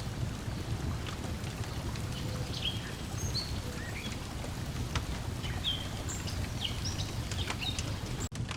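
Lakeside nature ambience: a steady low wash of water lapping against the shore, with short high bird chirps scattered throughout and a few sharp clicks like a wood fire crackling. The sound cuts out for an instant near the end.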